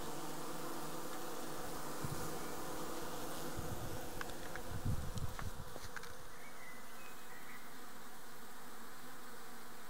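Honeybee colony buzzing steadily inside a Japanese-style hive, with a few low bumps about halfway through.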